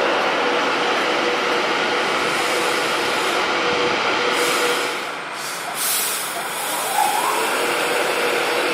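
Train running through the station with a steady rumble and hiss, easing briefly about halfway through.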